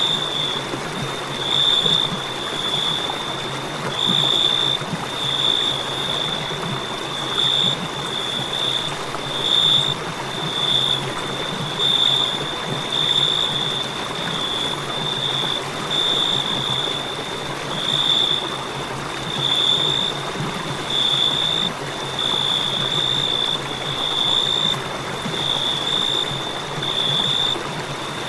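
Crickets chirping in a steady, high-pitched pulse, a little more than one chirp a second, over a constant hiss of background noise.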